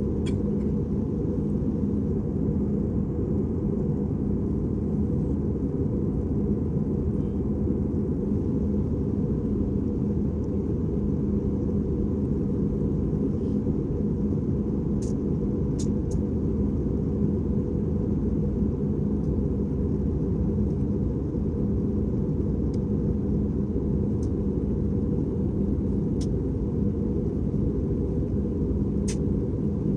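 Airbus A320 cabin noise: a steady, even rumble of engines and airflow, heaviest in the low end, with a constant hum. A few faint sharp clicks are scattered through it.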